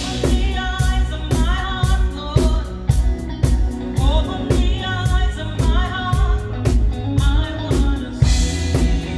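Live praise band music: a drum kit keeps a steady beat of about two strikes a second over bass, under a sliding melody line.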